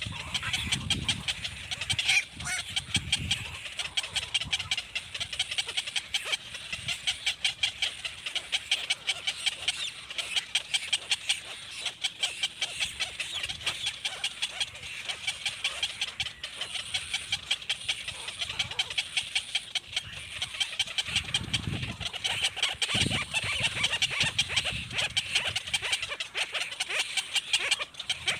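Baby black birds chirping continuously in rapid, high-pitched peeps, several a second.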